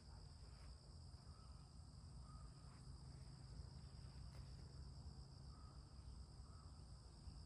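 Faint, steady insect chirring over a low rumble, with a few faint short chirps.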